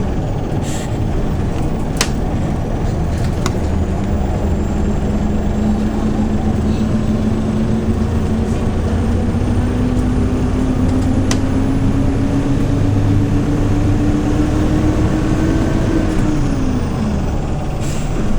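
Engine of a 2013 Hyundai New Super Aero City CNG city bus pulling under load as the bus gathers speed, its pitch climbing slowly for about sixteen seconds and then dropping quickly near the end at an upshift. A few sharp clicks and rattles sound along the way.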